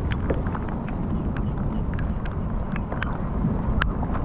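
Rain falling steadily: a low rumbling hiss with irregular sharp ticks of drops striking close by, several a second.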